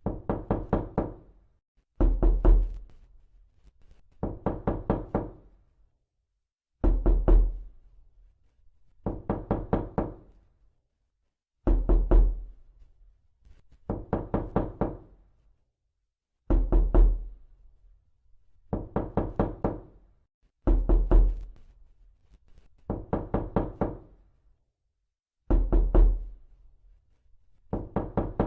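Knocking in repeated bursts of four to six quick knocks, with a new burst every two to three seconds, each knock carrying a deep thump.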